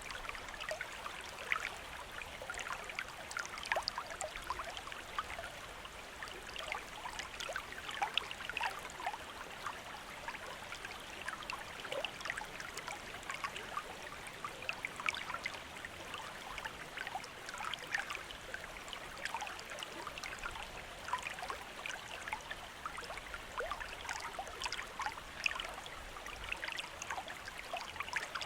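Small river or stream running steadily over stones, a continuous rush of water with many small irregular splashes and trickles.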